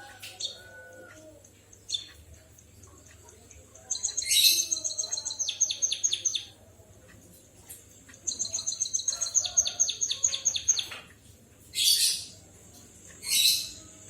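Emprit kaji bird singing a canary-like song: two long rapid high trills of about seven to eight notes a second, starting about four and eight seconds in, then two short loud high chirps near the end.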